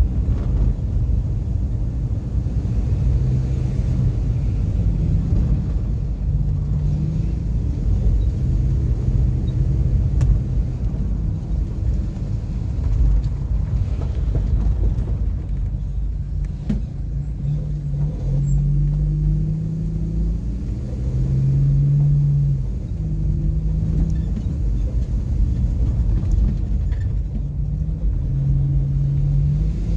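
A car driving, with a heavy low rumble of engine and road throughout. An engine hum comes and goes and shifts up and down in pitch as the speed changes.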